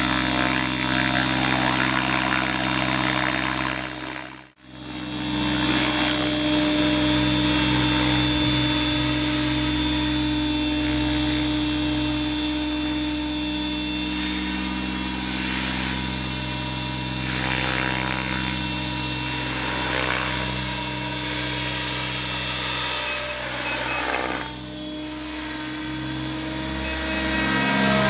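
Radio-controlled crop-spraying helicopter in flight: a steady rotor and motor drone made of several held tones. The sound drops out abruptly for a moment about four and a half seconds in, then resumes.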